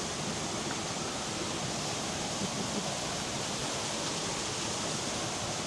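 Steady rush of a jungle waterfall and fast-flowing stream: an even, unbroken roar of turbulent water.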